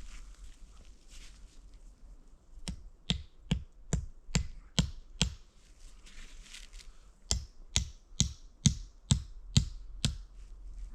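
Two runs of sharp, evenly spaced knocks, about seven in each at a little over two a second, with a pause of about two seconds between the runs.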